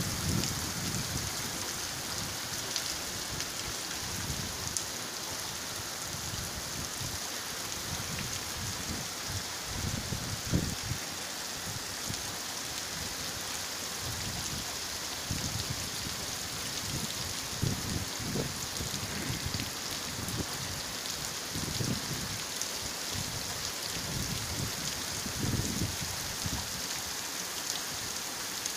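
Rain falling and splashing on a wet paved street, a steady hiss, with irregular low rumbles coming and going underneath.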